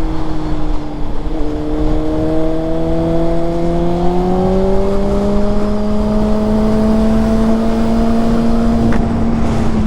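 2006 Honda CBR600RR's inline-four with a Yoshimura exhaust pulling steadily in one gear, its note rising slowly as the bike gathers speed, with wind rush underneath.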